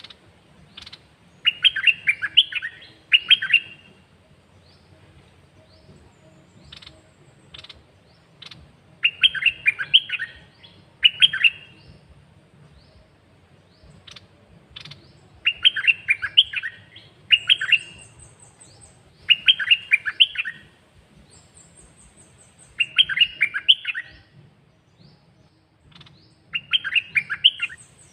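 A caged songbird of the kind Thai keepers call 'dok taeng' singing short phrases of quick rich notes, about six bursts each lasting a second or two with gaps of a few seconds between, and faint high chirps from other birds in the gaps.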